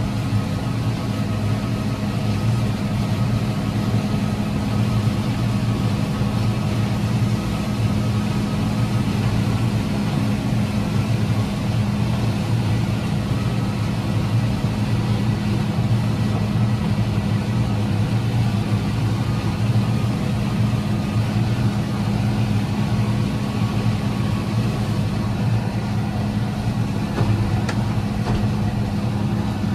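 Tractor engine running steadily under load, a constant low drone with no change in speed.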